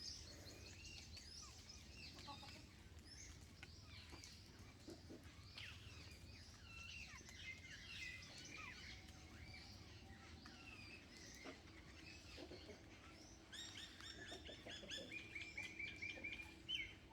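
Small birds chirping and calling, faint, with many short overlapping chirps; near the end one bird gives a fast run of repeated notes.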